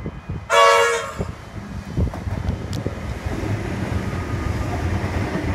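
Comeng electric suburban train sounding one short horn blast about half a second in, then rumbling and clacking over the rails, getting louder as it passes close by.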